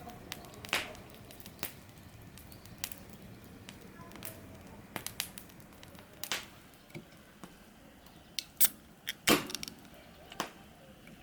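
Irregular sharp clicks and knocks, with two louder knocks about nine seconds in.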